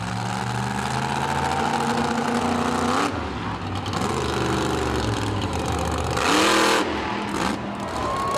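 Monster truck engine revving hard, its pitch climbing as the truck accelerates, easing off about three seconds in and climbing again, with a loud burst of noise about six seconds in.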